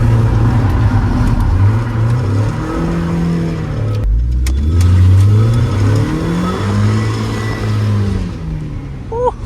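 Mazda Miata's four-cylinder engine revving hard, its pitch climbing and falling twice, with a sharp break about four seconds in.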